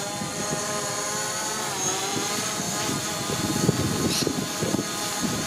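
DJI Mavic Pro quadcopter drone hovering, its propellers giving a steady multi-tone whine that dips briefly in pitch about two seconds in.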